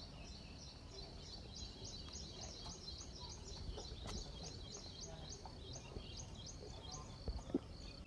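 A small bird chirping a rapid, even series of short high notes, about four a second, over low background rumble. Two soft knocks sound near the end.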